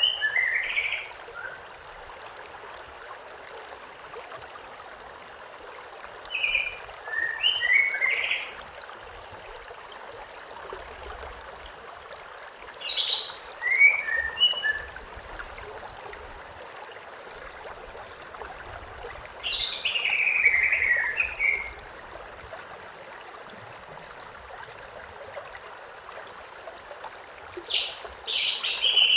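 A stream running steadily, with a songbird singing a short phrase of quick, mostly falling notes about every six to seven seconds, five times in all.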